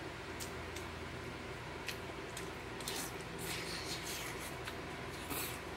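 Quiet eating sounds: chewing, with scattered soft clicks and scrapes, over a low steady hum.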